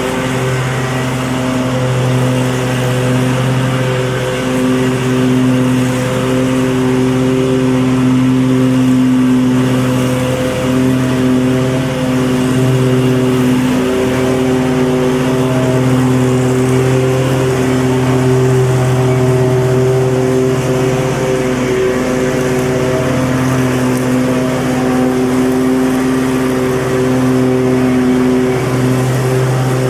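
Petrol lawn mower engine running steadily at constant throttle, its pitch wavering slightly now and then.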